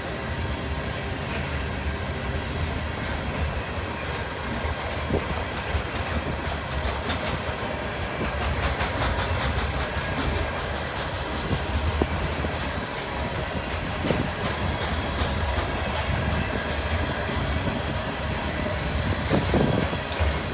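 Loaded coal train rolling past: the steady rumble of the cars with the wheels clicking over the rail joints.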